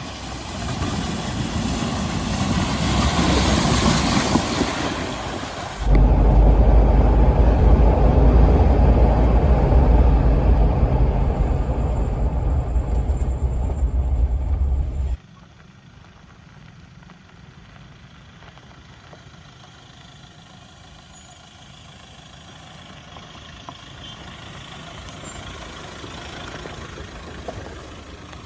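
Mahindra Scorpio SUV driving off-road. A loud rushing noise for the first few seconds is followed by a heavy, steady engine drone that cuts off abruptly about halfway through, leaving only a faint background.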